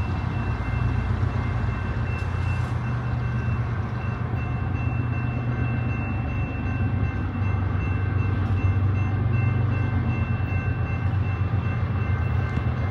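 BNSF diesel locomotives leading a coal train on approach: a steady low engine rumble that grows a little louder about halfway through, with faint steady high tones above it.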